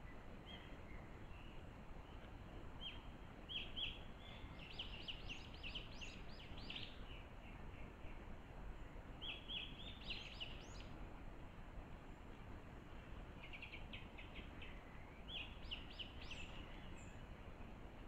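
A small songbird singing in four short bursts of rapid, high chirping notes, over a faint steady hiss of background noise.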